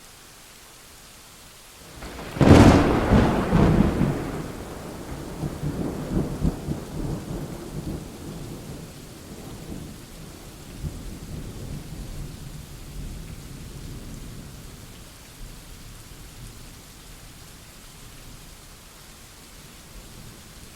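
Steady rain with a close thunderclap: a sudden sharp crack about two seconds in, then a long low rumble that slowly dies away under the rain.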